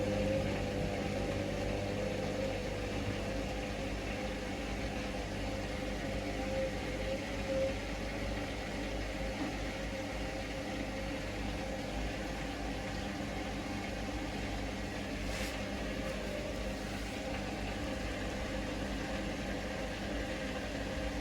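Hoover Link washing machine's motor turning the drum steadily as it tries to distribute and balance the load before the intermediate spin, with a whine that fades after several seconds. The load does not balance and the spin does not start.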